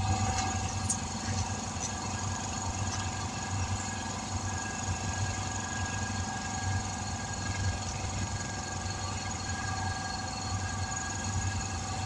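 An engine or motor running steadily, with a low pulsing hum and a few steady tones above it. It comes up in level right at the start.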